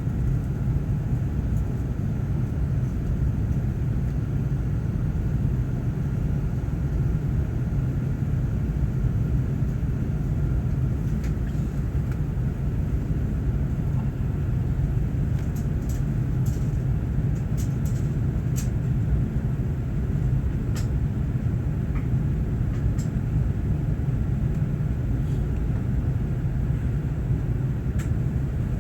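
Steady low rumble of an Airbus A380-861's Engine Alliance GP7270 engines and airflow heard inside the cabin, with a few faint clicks partway through.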